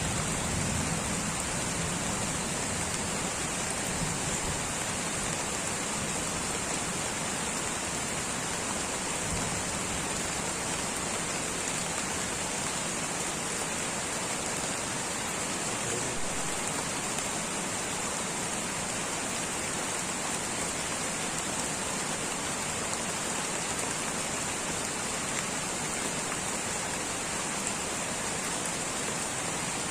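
Steady light rain falling on foliage, an even hiss of many drops without a break.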